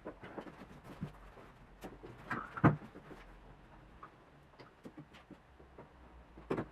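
Scattered light clicks and knocks of hands handling material and tools, with one louder thump about two and a half seconds in.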